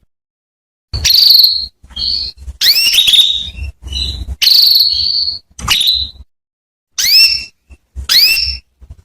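Female domestic canary calling: short loud chirps that sweep sharply upward, mixed with buzzy trilled notes, in quick bursts with brief silences between. It is the kind of female call used to coax male canaries into singing.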